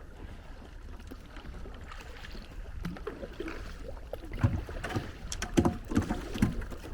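Kayak being paddled through icy water: water sloshing against the hull, then a handful of dull knocks and splashes from the paddle strokes in the second half.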